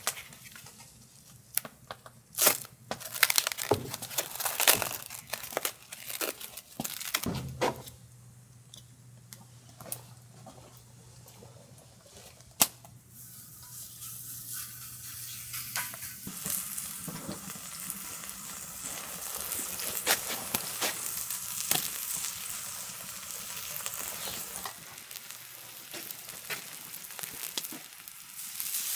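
Food frying on a cast-iron cauldron-lid griddle (sotttukkeong) over a wood fire. Scattered sharp clicks and knocks come first, then sizzling builds from about halfway through and keeps growing.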